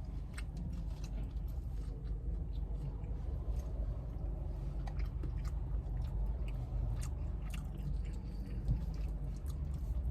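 A person chewing and biting into chicken wings close to the microphone, with wet mouth clicks and smacking throughout.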